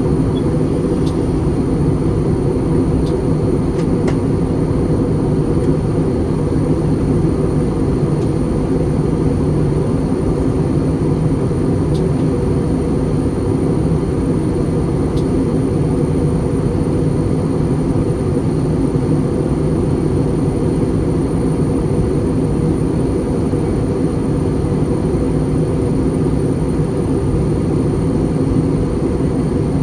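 Airbus A320 cabin noise in flight: the steady, low drone of the engines and airflow heard from a window seat, with a faint high steady whine above it.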